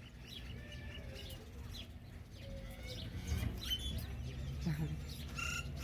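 Birds chirping with many short, scattered calls over a low background rumble. Near the end comes a louder, held call with a clear pitch.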